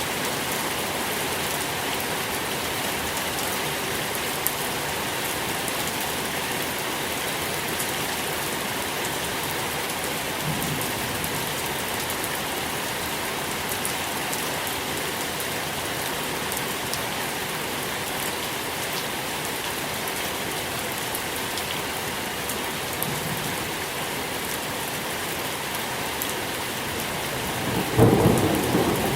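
Steady rain falling, an even hiss. Near the end there is a short, louder low rumble.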